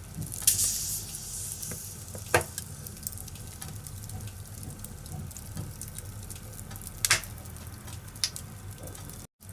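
Firewood burning in a fireplace: a steady low rumble and hiss of the flames with sharp crackling pops of the wood, a close pair of pops about seven seconds in. The sound cuts out for an instant near the end.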